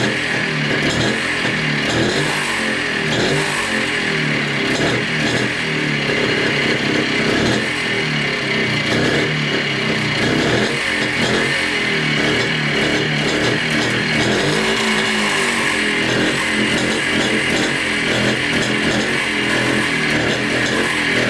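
Montesa Cota 247's two-stroke single-cylinder engine running continuously, its speed rising and falling slightly: the engine has just restarted after standing 42 years, and its idle has not yet been set.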